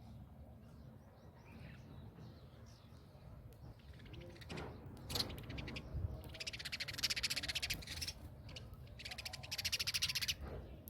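Birds giving two harsh, rapid rattling calls in the second half, the first lasting about two seconds and the second about one.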